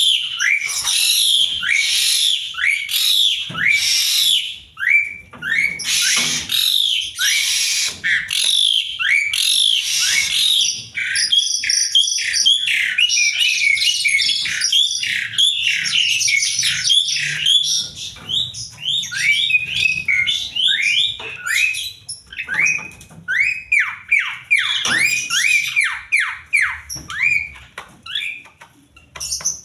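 Asian pied starling (jalak suren) singing its varied, continuous song: harsh, scratchy chatter for the first ten seconds or so, then quick runs of short falling whistles.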